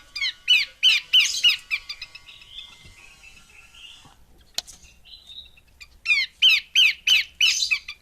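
Female Horsfield's babbler (pelanduk semak) calling: two bouts of sharp, quickly repeated notes that each slide downward, about three a second, one bout at the start and another about six seconds in, with softer calls between them.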